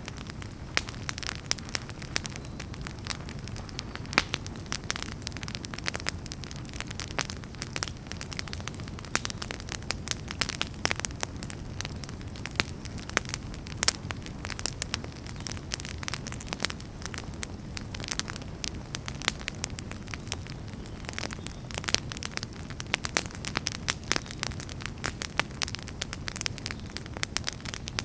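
Wood fire burning with a steady low rumble and frequent sharp, irregular crackles and pops from the firewood.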